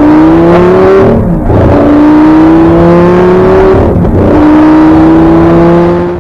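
Supercar engine accelerating hard through the gears. Its pitch climbs steadily, drops sharply at an upshift about a second in and again about four seconds in, then climbs again each time.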